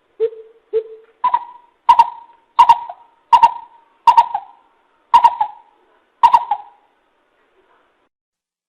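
Greater coucal (bìm bịp) hooting: a series of about nine short, deep notes, one every two-thirds of a second or so. The first two notes are lower and the rest higher, and the series stops near the end.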